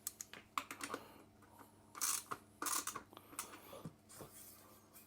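Hand tools working on the e-bike's front wheel axle bolt as it is tightened: scattered metal clicks and a couple of short scraping, rasping bursts.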